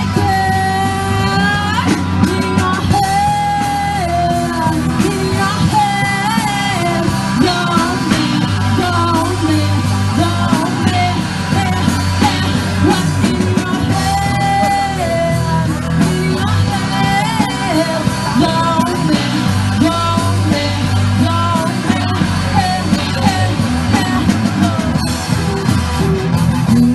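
A rock band playing live, with a lead singer's voice carrying the melody over bass, drums and guitar.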